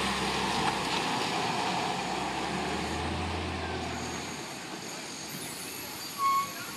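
Front-loader garbage truck engine running, then fading away over about four seconds as the truck pulls off. Near the end a single short, high beep is the loudest sound.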